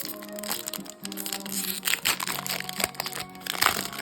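Crinkling and crackling of a foil Pokémon Mega Evolution booster pack and its cards being handled, louder in the second half, over steady background music.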